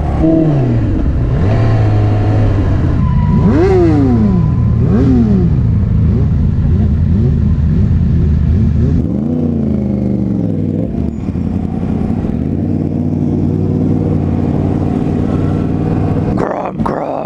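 Motorcycle engine running steadily and revving up and back down several times.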